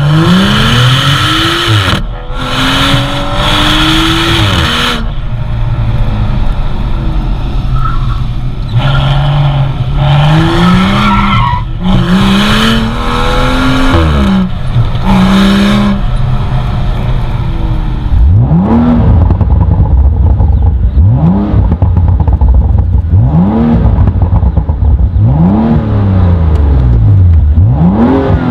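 BMW M235i's turbocharged straight-six with an AC Schnitzer exhaust accelerating hard through the gears, the pitch climbing and dropping back at each upshift, with heavy wind rush over the tailpipes. About two thirds of the way in it is heard from inside the cabin, in a series of quicker climbs about every two and a half seconds.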